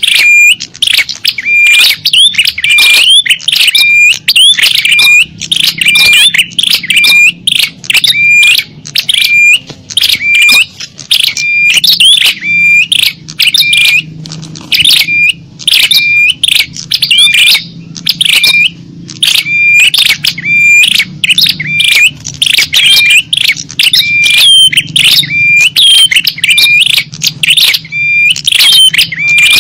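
Bird-lure call track of small songbirds: loud, high, rapid chirps repeating over and over without a break, each a short sweeping note, many ending on a brief held whistle.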